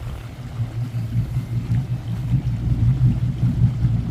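Motorboat engine running while the boat cruises, a steady low hum that grows louder from about a second in.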